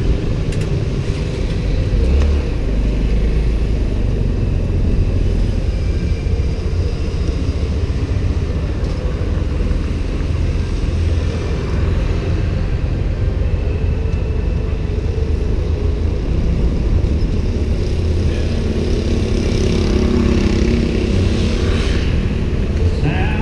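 Riding a motorbike through city traffic: a steady low rumble of engine and road, with traffic around it. Some higher pitched vehicle sounds come in near the end.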